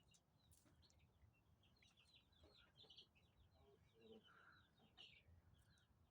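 Young chickens peeping faintly: a quick, continuous string of short high chirps, with a brief lower call a little after the middle.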